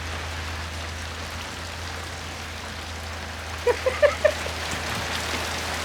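Heavy rain falling steadily, with three or four short pitched sounds about two-thirds of the way through.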